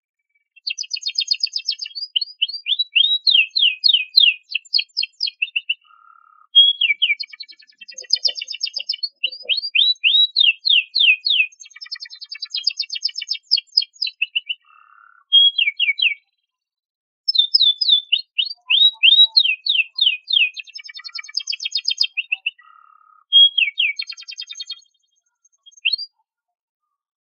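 Domestic canary singing: long phrases of fast trills, each made of rapidly repeated sweeping notes, separated by short pauses.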